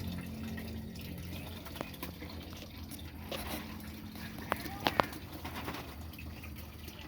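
A few short, sharp small-bird chirps, the loudest about four and a half and five seconds in, over a low steady hum.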